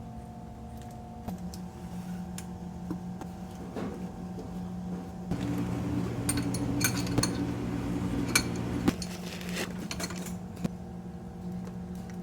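Light metallic clinks and taps of tools and parts being handled, over a steady low hum that grows louder for a few seconds in the middle.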